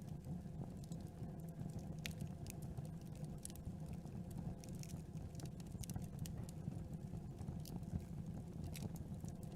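Campfire burning, with irregular crackles and small snaps of the wood over a steady low rumble of the flames.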